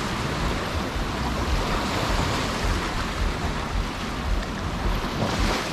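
Sea surf washing onto the beach in swelling, ebbing waves, with wind rumbling on the microphone.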